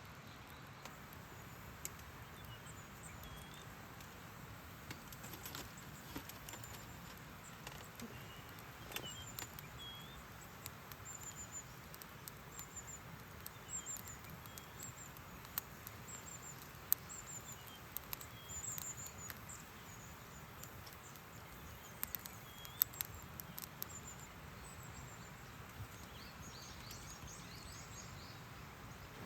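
Faint outdoor ambience: a steady low hiss with small birds chirping high and faintly in short repeated notes, densest mid-way, and a few scattered light clicks.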